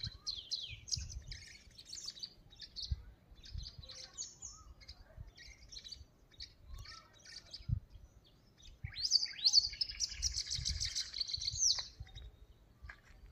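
Small birds chirping and twittering, many short calls overlapping, with a loud burst of rapid chirping from about nine to twelve seconds in.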